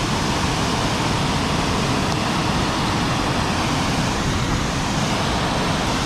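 Creek water rushing steadily over rocks, an even hiss with no pauses.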